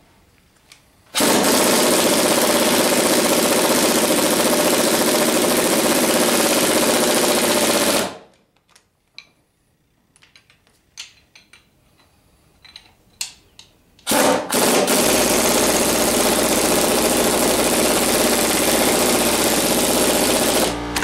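Impact wrench hammering bolts down in two long runs of about seven seconds each, with small clicks and clinks of tools and bolts between them. A low steady hum comes in during the second run.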